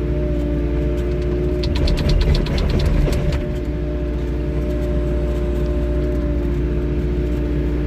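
A 3W wheeled excavator's diesel engine running steadily, with a steady whine from the hydraulics. About a second and a half in comes a quick run of rattling clicks that lasts under two seconds, as the bucket works the asphalt.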